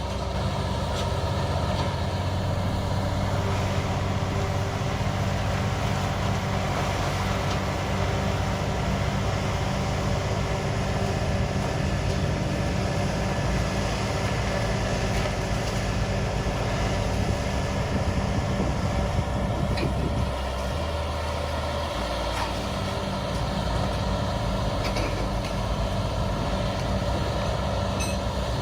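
Heavy machine's engine running steadily under load, its pitch dropping briefly about two-thirds of the way through.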